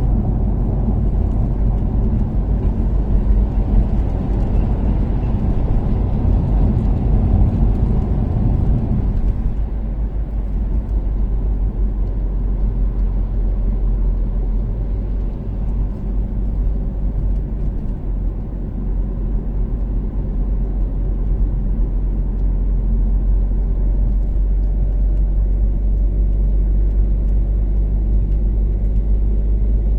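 Toyota Caldina's turbocharged 3S-GTE four-cylinder engine and tyre noise while cruising on an expressway, a steady low rumble. About ten seconds in the engine sound drops and stays quieter.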